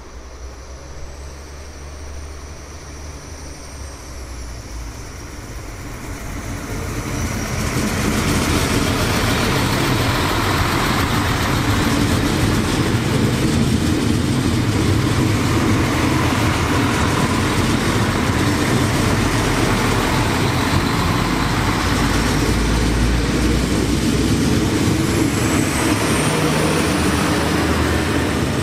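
A train approaching and passing close by. The noise builds over the first seven or eight seconds, then holds as a loud, steady rumble and rush of the train running past.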